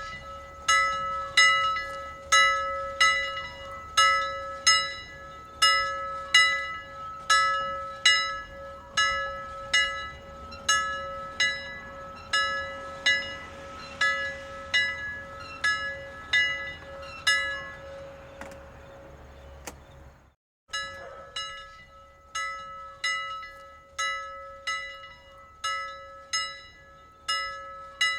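Alarm bell sound effect: a bell struck over and over, about one and a half strikes a second, with a steady ring sustained between strikes. It fades, cuts out briefly about two-thirds of the way through, then starts again at full strength.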